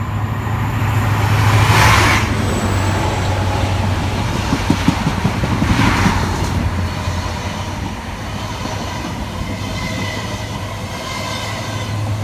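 A train passing through the station at speed without stopping: a rush of wheel and rail noise, loudest about two seconds in, with a second surge around six seconds, over a steady low hum.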